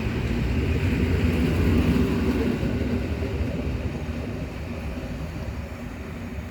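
An old PKP EN57 electric multiple unit passing on the track, loudest about two seconds in and then steadily fading as it moves away.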